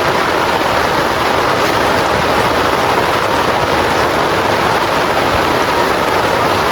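Heavy rain falling, a loud, steady, dense hiss without breaks.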